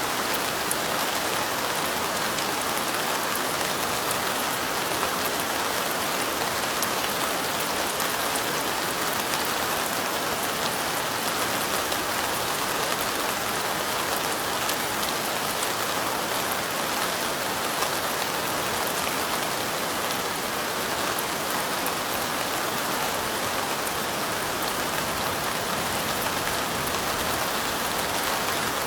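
Steady light rain: an even hiss of many small drops, with fine individual drop ticks standing out.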